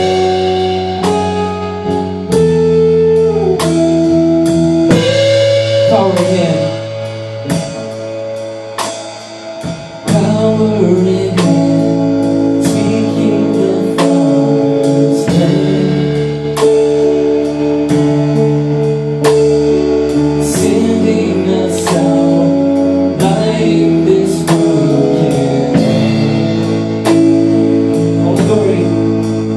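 Worship band music with guitar and a drum kit keeping a steady beat. It thins out and drops quieter about six seconds in, and the full band comes back in about ten seconds in.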